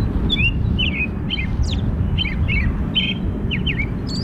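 A bird chirping in a quick run of short, sweeping notes, about two or three a second, over the steady low rumble of an approaching Metra commuter train.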